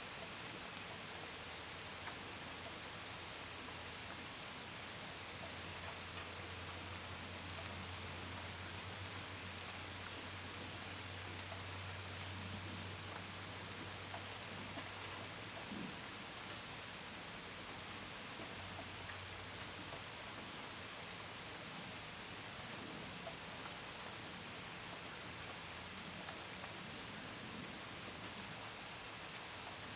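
Steady rain falling, pattering on a window and gutters, with crickets chirping in a constant high pulsing trill. Through the middle a low hum swells and fades: a plane passing overhead.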